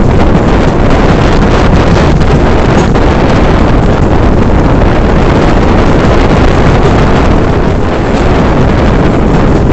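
Strong wind buffeting the microphone from a moving passenger train, mixed with the steady rumble of the train running along the track.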